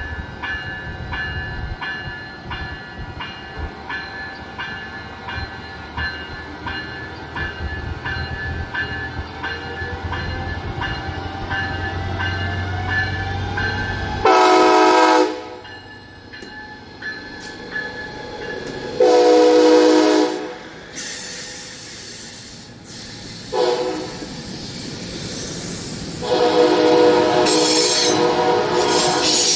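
A train running past with regular clicking from the rails and a slowly rising whine. About halfway through, its air horn sounds four times: long, long, short, long, the standard grade-crossing horn pattern.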